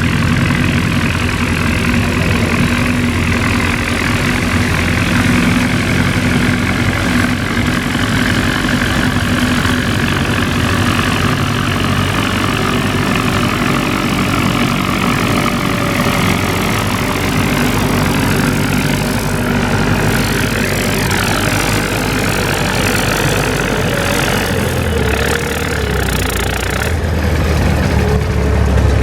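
Antique farm tractor engine running steadily, its low note shifting about 25 seconds in.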